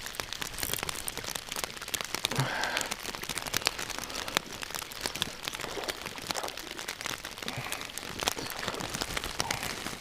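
Steady rain pattering, a dense run of irregular drop ticks over a constant hiss.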